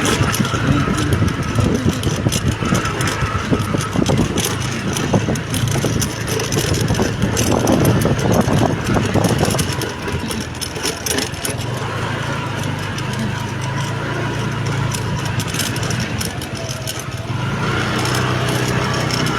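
Vehicle engine running steadily while on the move through road traffic, with continuous road and traffic noise; the noise gets louder for a few seconds around the middle.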